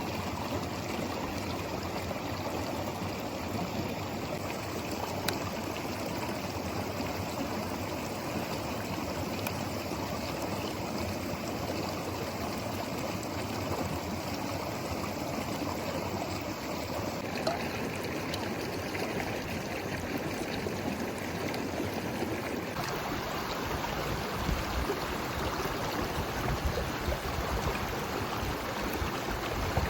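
Steady rushing and trickling of a flowing river stream. About three-quarters of the way in, the sound turns fuller and lower.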